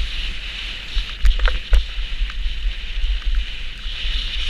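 Steady scraping hiss of sliding down a snow slope, with wind rumbling on the microphone and a few sharp knocks between one and two seconds in.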